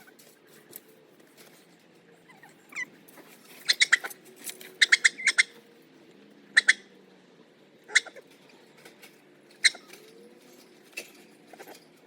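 Chickens giving short, sharp calls, singly and in quick runs of three to five, with one falling call near the start.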